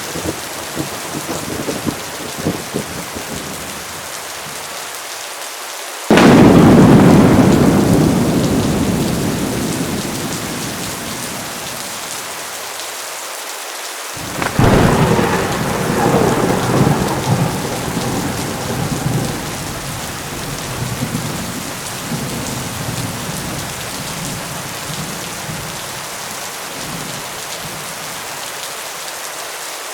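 Heavy rain falling steadily during a thunderstorm, with two loud thunderclaps, one about six seconds in and another about fourteen seconds in, each breaking suddenly and rumbling away over several seconds.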